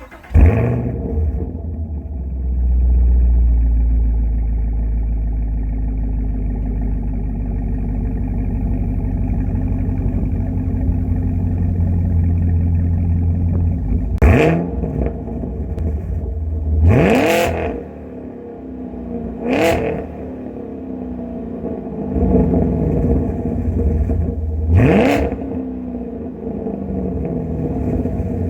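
Camaro SS 1LE's 6.2-litre V8 through Flowmaster Outlaw mufflers and an X-pipe, firing up right at the start and running at a high idle that settles lower. In the second half it is revved sharply four times, each rev a quick rise and fall in pitch.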